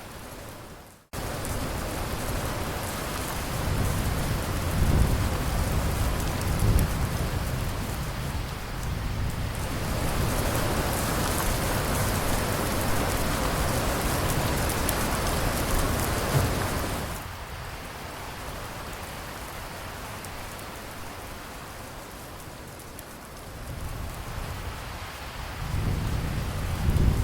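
Steady rain with low rolling thunder rumbles. The rain grows heavier in the middle and then eases, and the thunder returns near the end. The sound drops out briefly about a second in.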